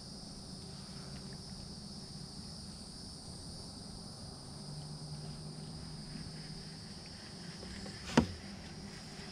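Steady chorus of insects, an even high-pitched drone, with one sharp knock about eight seconds in.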